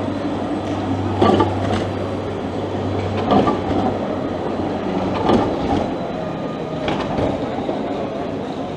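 Tram running on its rails with a steady running noise and a low hum. Its wheels knock over rail joints in pairs of clunks about every two seconds.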